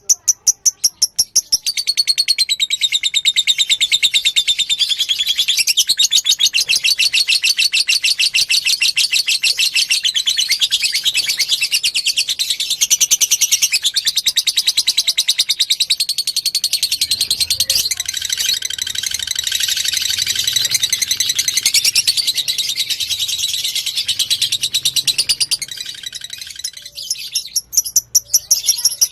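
Lovebird singing a long, very rapid chattering trill of high, evenly repeated notes. It breaks into separate notes at the start, then runs on unbroken for over twenty seconds. It stops briefly near the end and then starts again.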